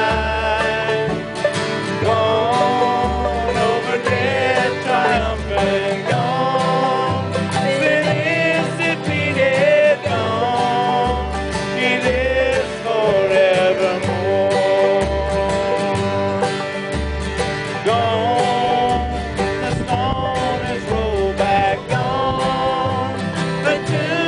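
Country-bluegrass band music with plucked guitar and banjo over a steady bass line.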